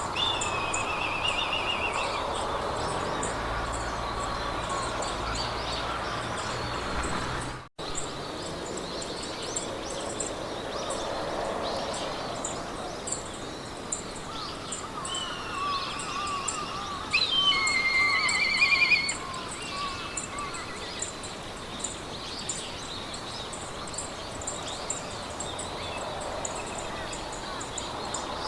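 Meadow ambience: birds singing short trills, the loudest a rolling trill a little past the middle, over a steady rushing hiss of wind in grass and a continuous rapid high-pitched chirping. The whole sound cuts out for an instant about eight seconds in.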